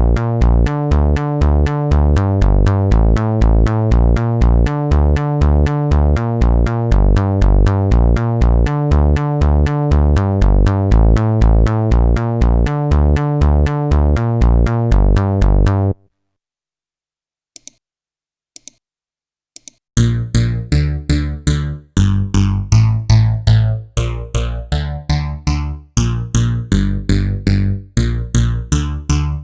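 Roland JD-990 preset sounds played from MIDI: a rhythmic synth sequence pulsing at about four beats a second with a heavy bass, stopping suddenly, then after a short pause with a few clicks a second patch whose tone sweeps up and down like a phaser over a pulsing rhythm.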